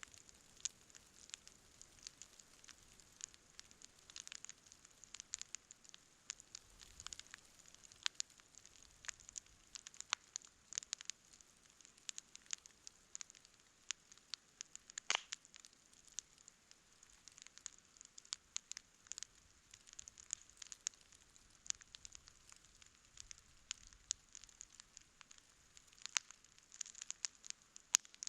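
Wood campfire crackling, with many irregular sharp pops and one louder pop about halfway through.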